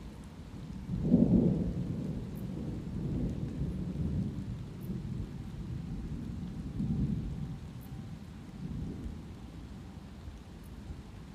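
Thunder rolling, loudest about a second in, then rumbling on in several further swells as it slowly dies away, over the steady hiss of light rain.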